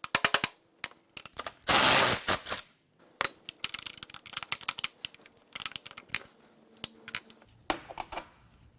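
Hammer blows on steel as a sacrificial 9/16 socket is driven onto a damaged connecting-rod nut: a quick run of sharp metallic strikes at the start, a loud short harsh burst about two seconds in, then scattered lighter metallic clicks and taps.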